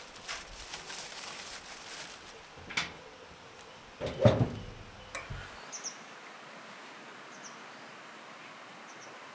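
Handling noises: a few light knocks, then a heavy thump about four seconds in, over steady outdoor background noise with a few faint, high, short chirps.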